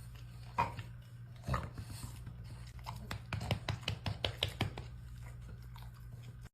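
Dog chewing, with a quick run of crunching clicks from about three seconds in, over a low steady hum.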